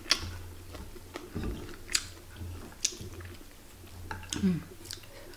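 Close-up chewing of a mouthful of rice and fried food, with a few sharp wet mouth smacks spaced about a second apart and a short hum about four and a half seconds in.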